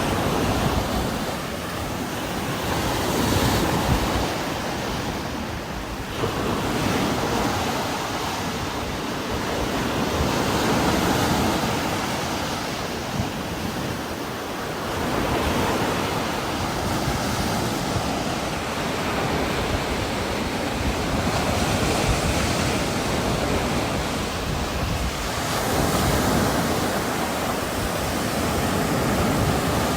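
Heavy rain with strong wind blowing through trees, a dense steady hiss that swells and eases in gusts every few seconds.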